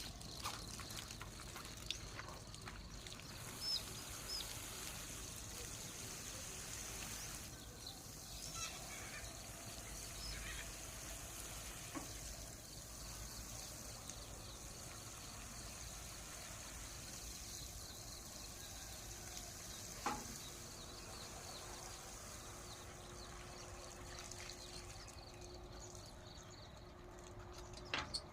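Water pouring and trickling as eggplant plants are watered, with a few faint clicks.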